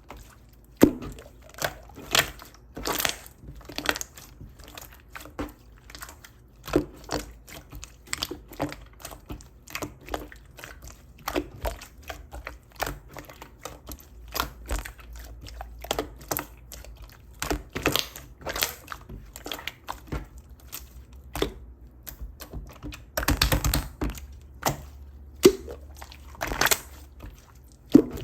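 Clear, glossy-coated slime being pressed and worked by hand, giving crisp irregular clicks and pops, with a denser crackling run toward the end.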